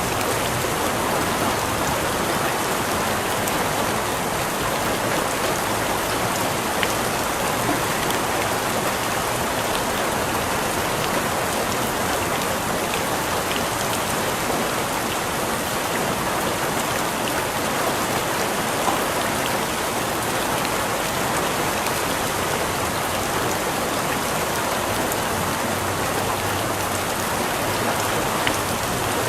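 Steady rain falling on a surface, with scattered individual drops ticking over the even hiss.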